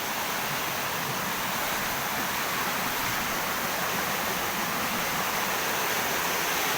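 A river swollen by the rainy season flowing fast, with a steady, even rush of water.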